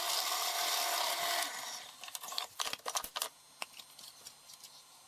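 Drill press running with its bit cutting into a wooden block, steady until about a second and a half in, then winding down. A few sharp clicks and knocks follow, leaving a faint low hum.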